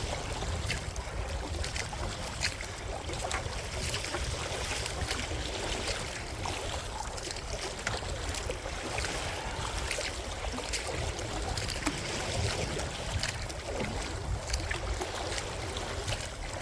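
Wind buffeting the microphone with a steady low rumble, over water splashing and slapping against a kayak's hull on choppy water.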